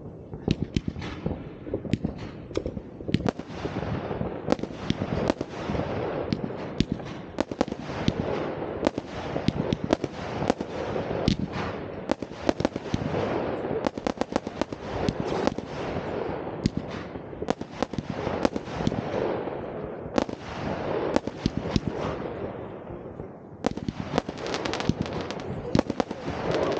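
New Year's Eve fireworks going off without a break: many bangs close together and overlapping, mixed with crackling.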